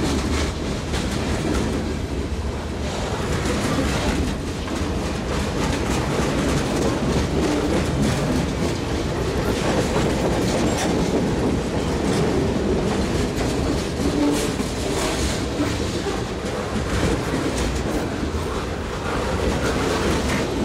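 BNSF freight train's boxcars and covered hoppers rolling past, the steady noise of steel wheels on rail with irregular clickety-clack over the rail joints.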